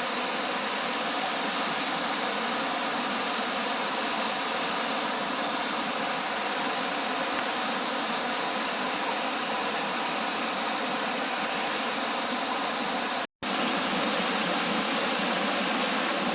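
Steady rushing of a small waterfall, an even hiss of falling water. It cuts to silence for an instant about three seconds before the end, then resumes.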